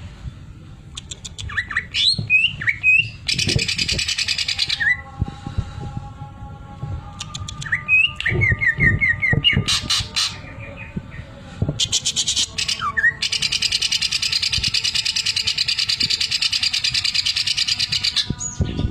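Green leafbird (cucak ijo) singing: whistled notes that glide up and down, a quick run of repeated notes, and fast buzzing rattles, one short and one long held for about six seconds near the end. The rattle is the sewing-machine ('mesin jahit') imitation the bird has learned.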